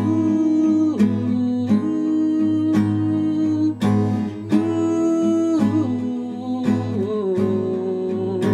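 Acoustic guitar strummed about once a second, its chords ringing on between strokes, in the instrumental break between a chorus and a verse.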